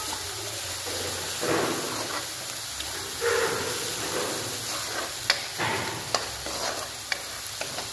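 Onions, garlic, ginger and spice powder frying in hot oil in a kadhai, a steady sizzle while a spatula stirs and scrapes through them in several strokes, with a few sharp taps of the spatula on the pan in the second half. This is the masala and turmeric being fried into the onion base.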